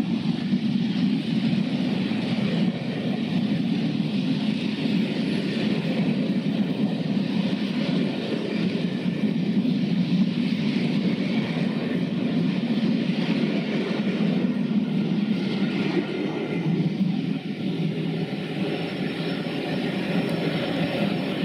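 Vintage passenger coaches of a charter train rolling past along the platform: a steady rumble of wheels on rail.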